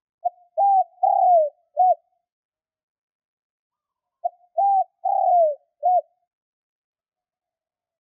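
Spotted dove cooing: two phrases about four seconds apart, each a short note, a held note, a longer note falling in pitch, and a short closing note.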